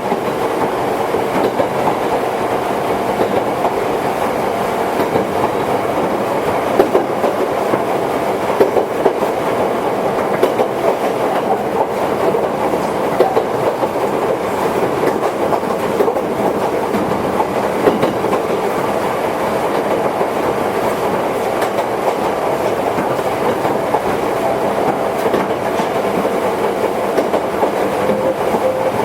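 Onboard running sound of a Toyohashi Railway 1800 series electric train (ex-Tokyu car) under way: a steady rumble of wheels and traction motors, with wheels clicking over rail joints every now and then.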